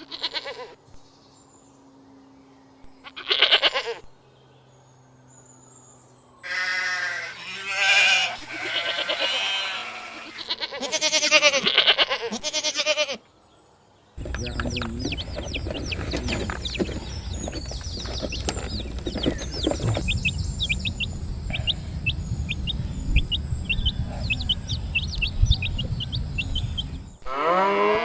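Bleating animals calling over and over with wavering cries, a couple of single calls at first, then many overlapping calls from about six to thirteen seconds in. After a brief gap the sound changes to a steady low rumble with many quick, high chirps over it.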